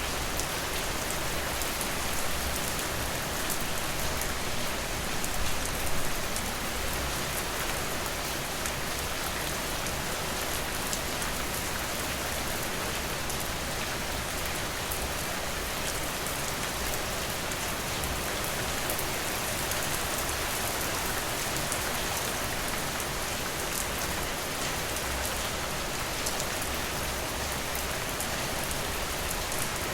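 Steady rain falling, with a dense patter of drops. It swells briefly about six seconds in.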